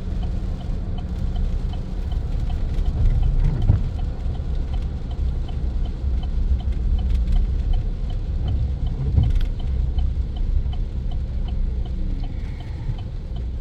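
Pickup truck cabin noise while driving: a steady low engine and road rumble, with a faint, even ticking about two to three times a second, like a turn signal clicking.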